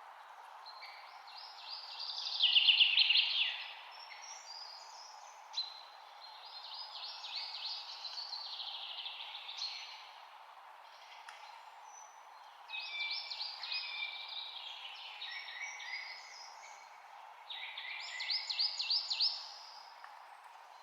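A songbird sings four phrases of rapid warbling, trilled notes, each a few seconds long with short pauses between, over a steady background noise.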